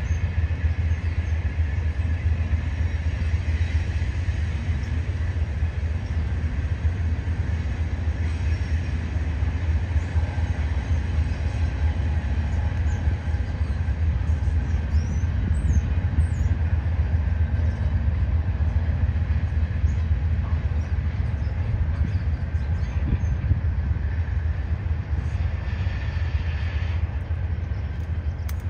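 Double-stack intermodal freight train rolling steadily across a stone arch railroad viaduct: a continuous low rumble of the railcars' wheels on the rails.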